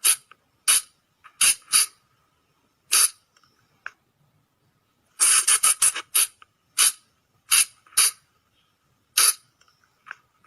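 Sunda colugo (flying lemur) giving short, shrill squeaking calls. There are single calls and a quick pair, then a rapid run of about five calls around five seconds in, followed by single calls spaced about half a second to a second apart.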